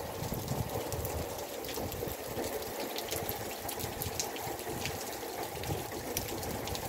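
Heavy rain falling steadily, with many sharp drop taps, and runoff water streaming across the yard.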